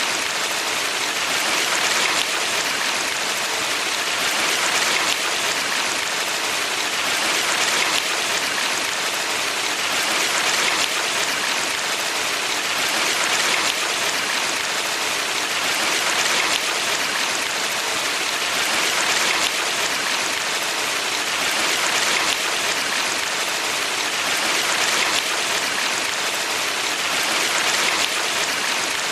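Valley stream water rushing in a steady hiss, swelling gently about every three seconds.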